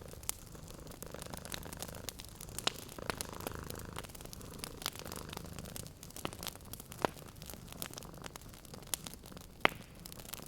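Wood fire in a fireplace crackling, with scattered sharp pops, the loudest near the end, over a cat purring low and steady.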